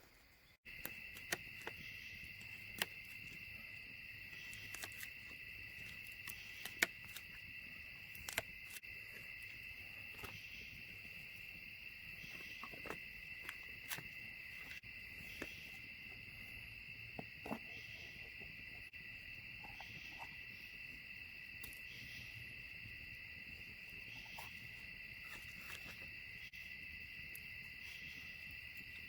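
A chorus of crickets trilling steadily at night, with scattered faint clicks.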